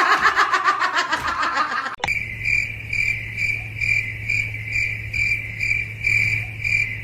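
Crickets chirping in an even rhythm, about two chirps a second, over a low steady hum, starting suddenly about two seconds in. Before that, a short stretch of laughter.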